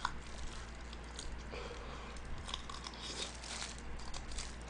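Biting and chewing crispy Kyochon Honey Combo fried chicken close to the microphone, with irregular crisp crunches.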